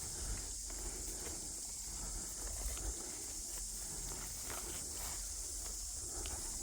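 Slow, scattered footsteps on rough ground over a steady high hiss and a low rumble of wind on the microphone.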